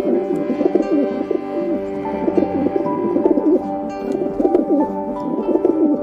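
Rock pigeon cooing, a run of throaty warbling coos repeated several times, over background music with steady held notes.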